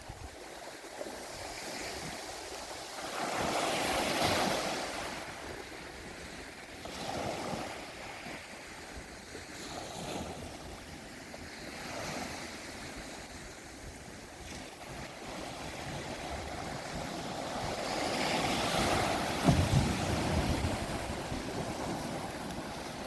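Sea waves washing against a rocky shore, the surge swelling and fading in slow rolls, loudest about four seconds in and again near the end, with a brief sharp hit of water near the end.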